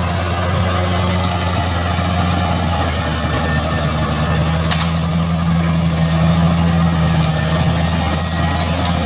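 Bulldozer's diesel engine running steadily, with a high squeal from its steel tracks coming and going.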